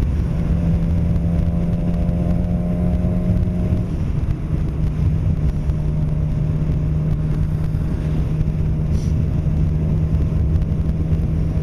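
Suzuki GSX-R 600 inline-four engine running at steady riding revs under a constant wind rush, heard from the rider's helmet. The engine note drops slightly about four seconds in.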